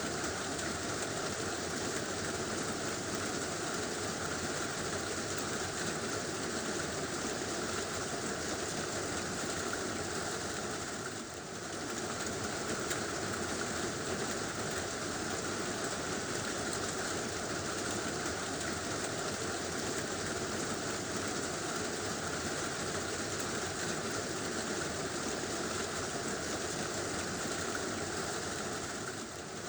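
Heavy rain drumming steadily on a tin roof, an even rushing patter that briefly dips about eleven seconds in.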